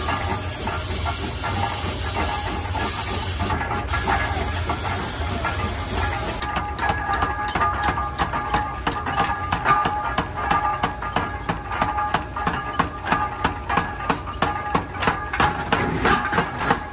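Forge shop noise: a steady hiss for about six seconds, then rapid, evenly repeated metal strikes with a ringing tone, about three a second, as a hammer forges a hot gear blank.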